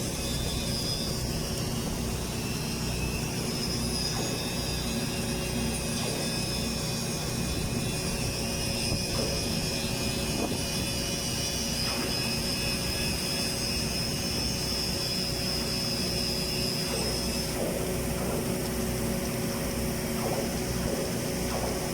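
Steady hum of running welding-site machinery with a couple of held tones. A high whine over it stops sharply about three quarters of the way through.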